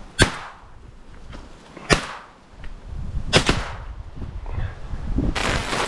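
Four shotgun shots at a field hunt: single shots about a quarter second and two seconds in, then a quick pair about three and a half seconds in, each with a short echoing tail. A rushing noise follows near the end.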